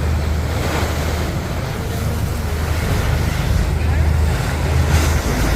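Wind buffeting the microphone and water rushing past a moving tour boat, over the boat engine's steady low hum.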